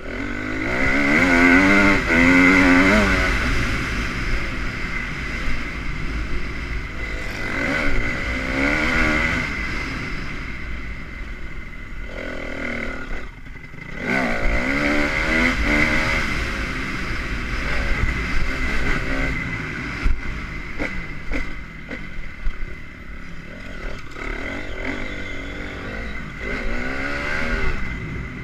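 Honda CRF250 motocross bike's single-cylinder four-stroke engine being ridden hard, its pitch rising and falling again and again as the throttle opens and closes, with a brief drop-off about halfway through.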